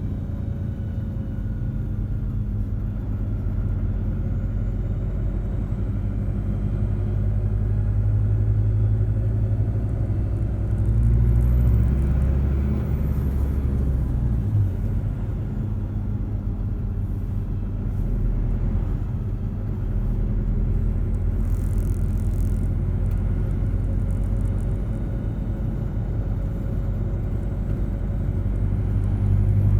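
Steady low rumble of passing road traffic, swelling and easing as vehicles go by.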